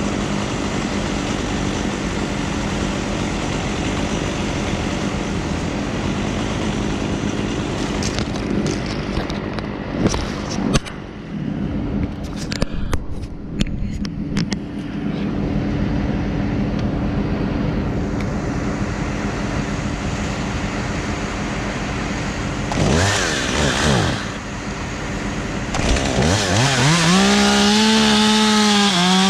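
Steady engine noise with a few sharp knocks, then near the end a two-stroke chainsaw revs up and down once and is throttled up to a high, steady full-throttle pitch that it holds.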